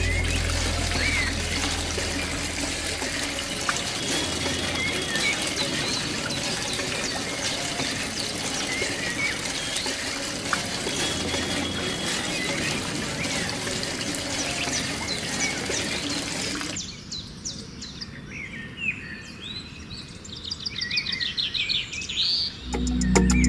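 Water pouring and splashing from a miniature hand pump's spout into a small clay pot, with birds chirping. The water stops about two-thirds of the way through, leaving only the birdsong, and music comes in right at the end.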